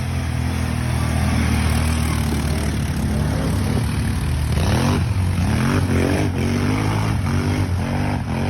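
ATV engine running at a steady speed, then revving up and down several times in quick succession from about halfway in.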